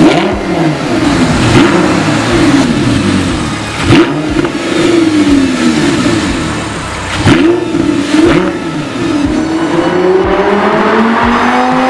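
Audi R8 V10 Spider's V10 engine revved through an aftermarket PICO exhaust in repeated blips, the pitch jumping up and falling back each time, with the sharpest blips near the start, about four seconds in and about seven seconds in. Near the end there is a longer, steadier climb in pitch.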